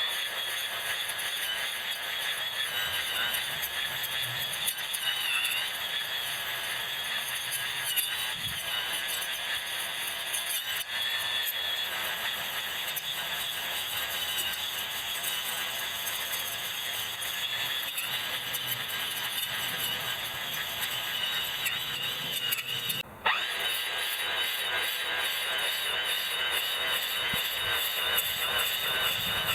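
Electric grass trimmer cutting grass, its sound sped up into a steady high-pitched whine and hiss, with a brief break about 23 seconds in.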